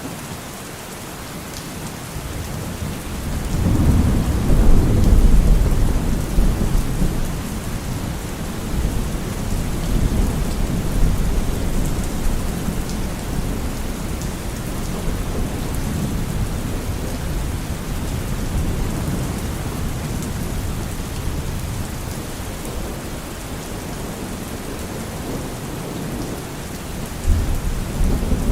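Steady rain with a roll of thunder that swells about four seconds in and rumbles away over several seconds. A second low rumble of thunder begins near the end.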